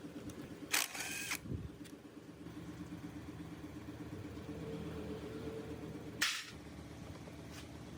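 A compactor's small gasoline engine running steadily, with two short loud noisy bursts over it, about a second in and again about six seconds in.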